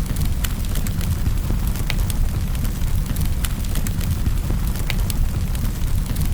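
Wood fire burning in a fireplace: a steady low rumble of flames with irregular sharp crackles and pops scattered through it.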